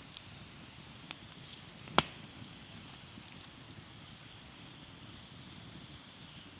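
Small wood campfire crackling faintly, with a few small ticks and one sharp loud pop about two seconds in.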